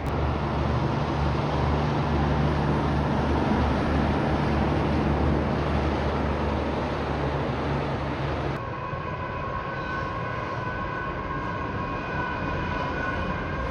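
Heavy truck passing close by, its diesel engine a steady low drone over tyre and road noise. About two-thirds of the way through the sound cuts off abruptly and a quieter rumble follows, carrying several steady high-pitched whines.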